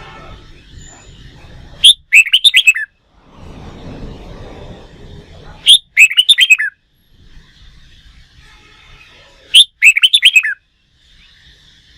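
Red-whiskered bulbul singing: the same short, loud, warbling phrase of several quick notes comes three times at even intervals, about four seconds apart.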